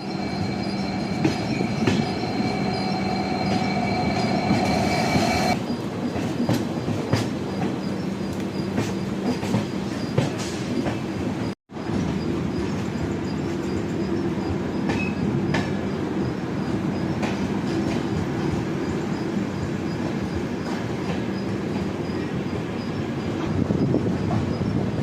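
Passenger train running on the rails: a steady rumble with wheel clatter, and a high squeal of the wheels in the first few seconds that cuts off abruptly. There is a brief dropout just before halfway.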